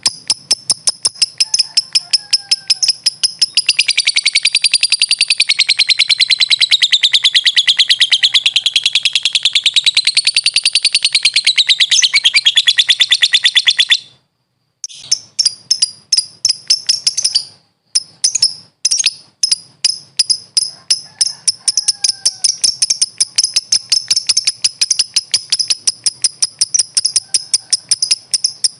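Lovebird (Agapornis) calling: a fast run of sharp, high-pitched chirps, several a second, swelling at about four seconds into a long unbroken chatter that wavers in pitch, the drawn-out 'ngekek' song. It stops abruptly at about 14 seconds, then the rapid chirping resumes with a couple of short breaks.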